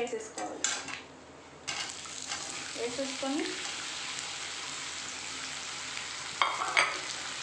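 Raw banana slices going into hot oil in a kadai: a sudden sizzle starts about two seconds in and settles into steady frying. A couple of utensil knocks sound near the end.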